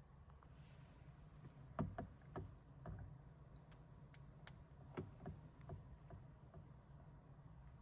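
Faint scattered knocks and a few sharp clicks over a quiet low hum.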